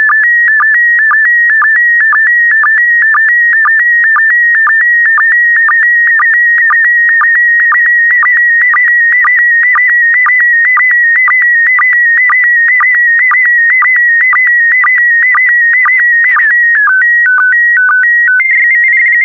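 PD120 slow-scan TV (SSTV) image signal: a warbling electronic tone around 2 kHz, broken by short, lower sync pulses about twice a second as the last scan lines of the picture are sent. Near the end it changes to a few stepped tones, then cuts off suddenly as the transmission finishes.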